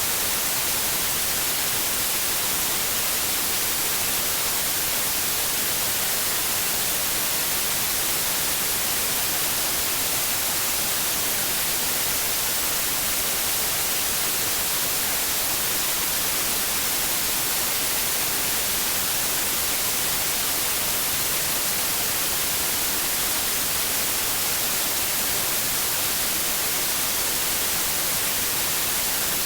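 Steady white noise: an even, unchanging hiss, brightest in the treble, played continuously as a sleep aid for babies.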